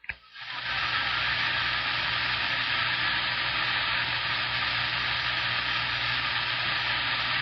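CB radio static: a steady rush of hiss from the receiver's speaker that switches on with a click and cuts off suddenly, heard between transmissions.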